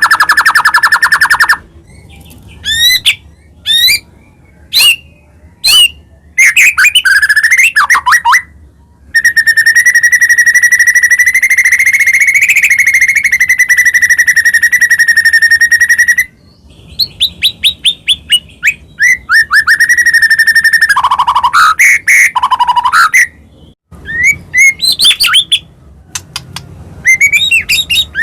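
White-rumped shama (murai batu) singing loudly in full song. Quick whistled phrases and fast chips are broken by a long, rapid trill held for about seven seconds in the middle.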